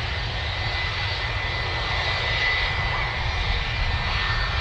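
Jet airliner engines running: a steady rumble and hiss with a faint high whine.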